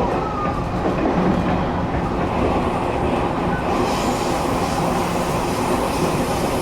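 Steady running noise heard inside a moving train carriage: wheels rolling on the rails under the floor, with a faint brief rising tone just after the start and a little more hiss in the second half.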